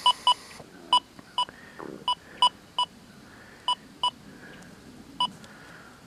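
XP Deus 2 metal detector giving about a dozen short beeps, all at the same pitch, at irregular intervals that thin out towards the end.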